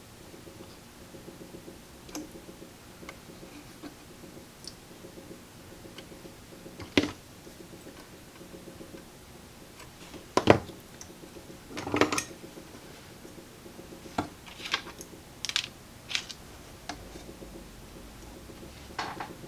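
Scattered sharp clicks and light taps of small tools and parts being handled on a workbench while a component lead is looped for soldering, over a faint steady hum.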